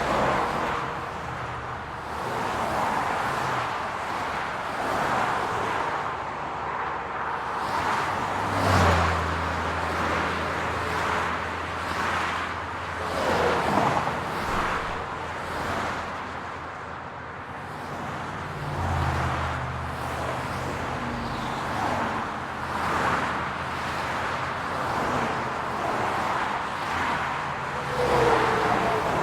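City road traffic: cars passing one after another in a steady wash of tyre and engine noise. A low engine hum comes in about a third of the way through, fades out, and returns for most of the rest.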